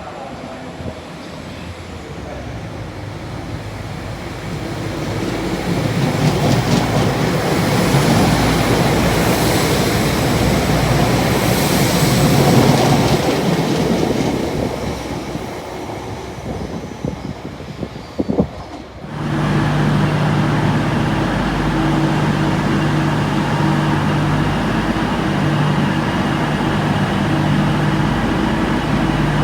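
A train running past on the rails, its rumble and wheel-on-rail noise building over several seconds and then fading. About two-thirds of the way through the sound changes abruptly to a steady droning hum with a low, even tone, typical of a train's engine or traction equipment running at the platform.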